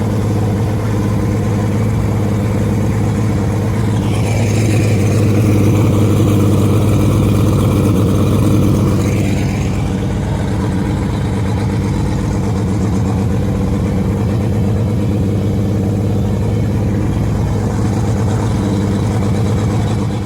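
135 hp Mariner outboard motor running steadily as the bass boat is under way, a steady low drone. For a few seconds about a quarter of the way in it grows louder, with an added hiss on top.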